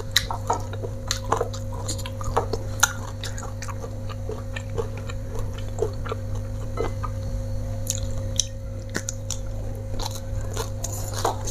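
A person chewing and biting food close to a clip-on microphone, with many short crisp clicks and crunches scattered throughout, over a steady low hum.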